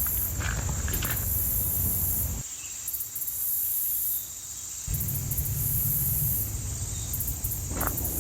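Insects chirping in repeated high pulses about a second long. Footsteps fall near the start and again near the end, over a low rumble that drops away for a couple of seconds in the middle.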